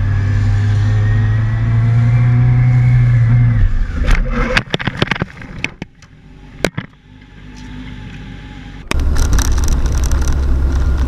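Car engine running with a slowly rising pitch, which stops about four seconds in under a cluster of sharp bangs and knocks, as in a collision. After a quieter stretch with a single knock, steady car road noise starts abruptly near the end.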